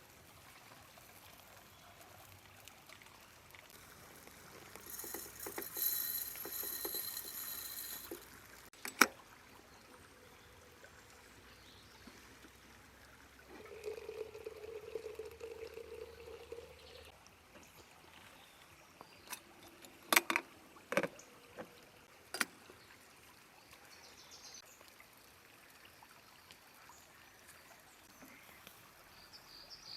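River water flowing steadily in the background. A few sharp clicks or knocks sound about nine seconds in and again three or four times between twenty and twenty-two seconds, and a short steady tone runs for a few seconds around the middle.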